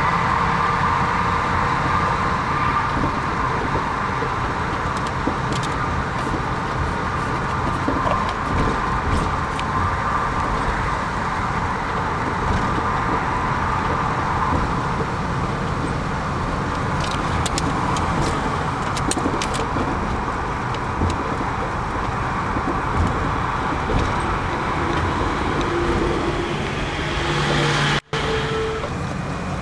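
Motor vehicle driving on a road: steady engine and tyre noise that breaks off for an instant near the end.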